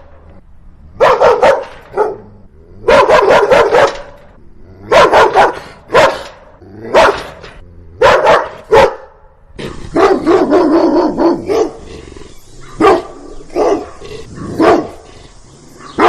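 Dog barking in quick runs of several barks, the runs coming every second or two. About ten seconds in, a steady hiss starts behind the barks, which become sparser.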